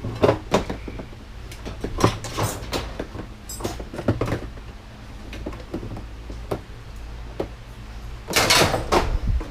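Parts of a washer/dryer being handled and pried apart during dismantling: scattered knocks and clanks, with a longer scraping rattle about eight and a half seconds in, over a steady low hum.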